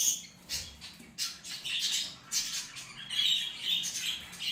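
Budgerigars chattering: a rapid, irregular run of short chirps and squawks, coming in bunches throughout.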